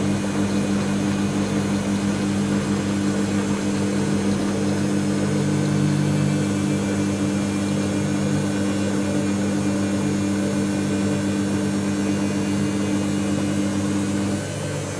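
Dyson Contrarotator CR01 washing machine running at a steady speed, a constant motor hum. Near the end one of its tones drops out and it gets slightly quieter.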